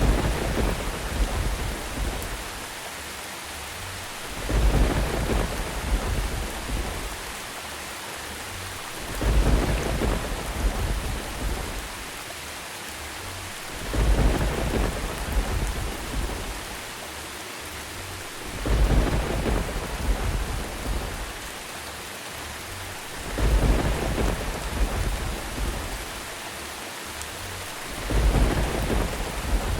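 Steady rain with rolling thunder: a low rumble swells up and dies away about every five seconds, at very even intervals, over a constant rain hiss.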